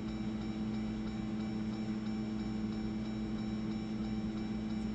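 Steady mechanical hum with a faint, fast, even ticking over it.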